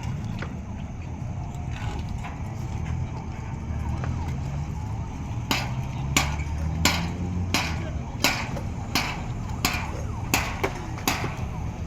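Strong wind buffeting the microphone with a steady low rumble under a hiss of heavy rain. From about halfway, nine or so sharp knocks come at an even pace, roughly one every 0.7 seconds.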